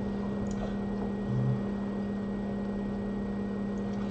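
Steady hum with a faint hiss from running soldering-bench equipment, with a brief low buzz about a second and a half in.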